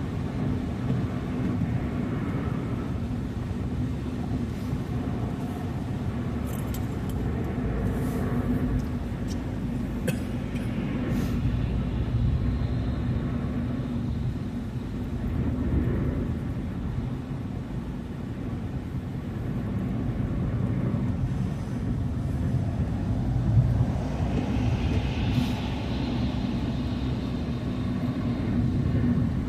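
Car driving on a snowy road: a steady rumble of engine and tyre noise, with a brief swell of hiss near the end.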